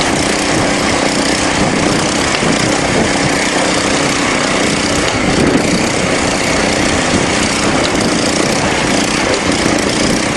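Small garden tractor engines running steadily under load, pulling against each other.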